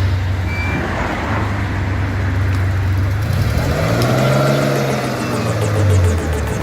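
A car engine running with a steady low note, which rises and falls back once around the middle, like a brief rev or a car driving past.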